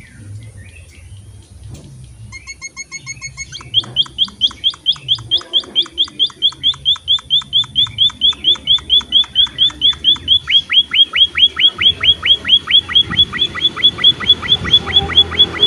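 Munia (emprit) finch song: a short buzzy rattle, then from about four seconds a long, rapid run of short, sharp down-slurred notes at about five a second, growing louder toward the end.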